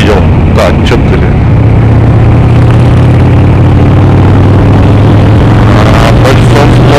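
Cruiser motorcycle engine running steadily while riding, with road and wind noise, heard from a microphone inside the rider's helmet. The engine note steps slightly higher about two seconds in.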